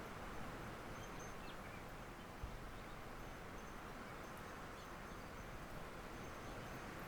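Steady wind-and-rain storm noise heard through a window, with a few faint, short bird chirps. A soft low thump comes about two and a half seconds in.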